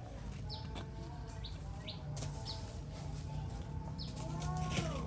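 Short, high bird chirps repeating about once a second, with a longer falling call near the end, over a steady low hum.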